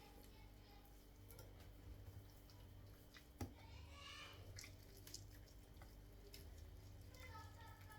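Faint sounds of hands pulling boiled chicken meat off the bone: a few light ticks, one sharp tap about three and a half seconds in and a short soft squelch just after, over a low steady hum.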